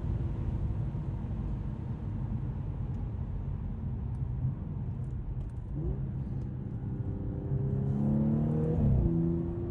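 2012 Audi S5's supercharged 3.0-litre V6 driving along with steady road noise, then accelerating from about seven seconds in, its note rising and growing louder for about two seconds before dropping sharply at a gear change near the end and settling to a steady hum.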